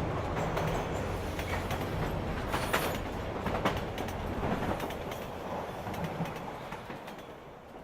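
Subway train running: a steady low rumble with rattling and clacking, fading out over the last few seconds.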